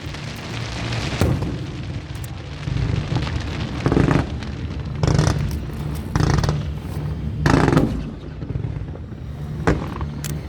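Aerial fireworks shells bursting: a series of booms, a second or two apart, with crackling between them.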